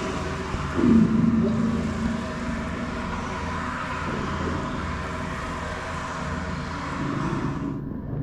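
A car driving, with steady road and engine noise. About a second in, a louder tone rises and then holds for about a second. The higher hiss cuts off suddenly near the end.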